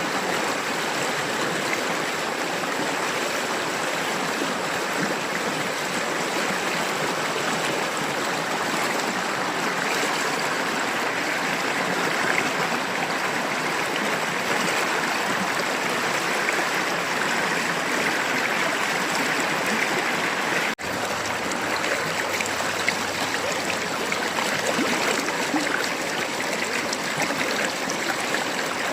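River water babbling steadily, cut off for an instant about two-thirds of the way through.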